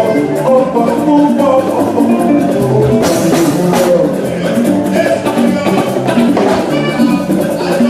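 Live band music with a drum kit and percussion under several pitched instruments, with a burst of high hiss about three seconds in.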